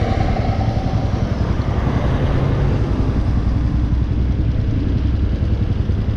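Hawk 250's 229cc single-cylinder engine running steadily under way, with the pitch shifting a little partway through as the throttle changes, and a rush of riding noise over it.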